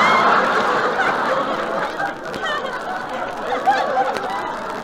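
Studio audience laughing, loudest at the start and slowly dying away.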